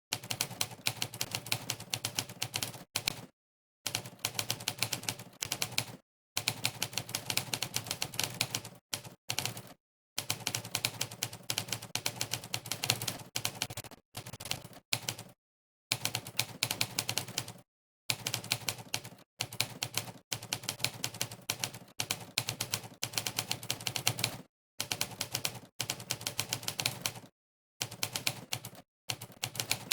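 Monkeytype's typewriter keypress sound effect, one typewriter key clack for each keystroke, played in fast runs of several clicks a second. The runs are broken by a dozen or so brief pauses of dead silence where typing stops for a moment.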